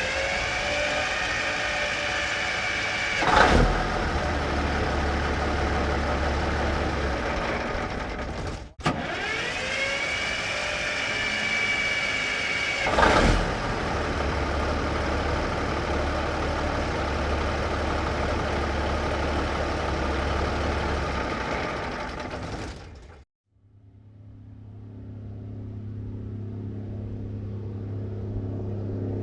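1954 big-rig truck engine heard from outside, started twice: each time the starter whines up, the engine catches with a loud burst about three seconds in, runs steadily and is shut off. Near the end another take begins, the truck's engine fading in as it approaches.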